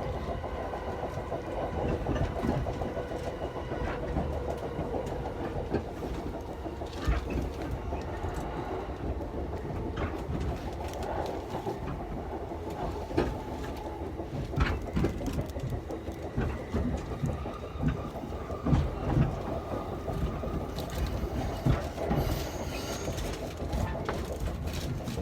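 Interior of a JR Yamanote Line train car running between stations: a steady low rumble with a faint electric hum, and sharp clacks from the wheels over the rails scattered throughout.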